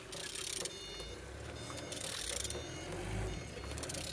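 EN07 engine being turned over by hand, its crank rotating with a low rumble and short bursts of hiss, turning freely.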